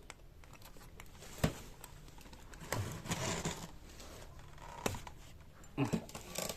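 A few sharp clicks and taps, a pair of them near the end, with a short rustling scrape in the middle: hand work on a scooter engine being stripped down.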